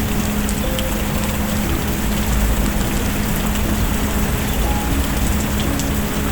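Steady rain falling, an even hiss with no letup, over a faint low steady hum. Scattered tiny sharp clicks sound on top.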